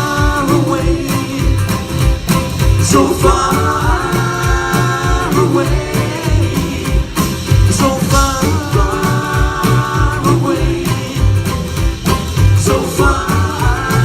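Bluegrass-style band playing a rock cover on acoustic instruments over a steady drum beat. A group of long held chord notes comes back about every five seconds.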